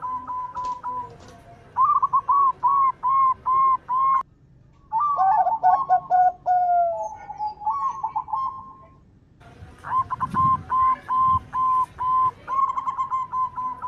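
Zebra doves (perkutut) cooing: phrases of short, quick notes repeated in runs, with two brief breaks about a third and two-thirds of the way through.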